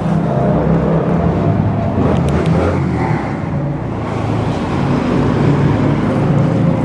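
Car engine running at idle, a steady low hum with no speech over it.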